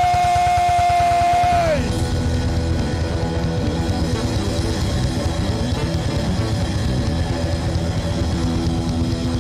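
A long held yell that drops off under two seconds in, over loud, fast rock music with guitar and drums that plays on through.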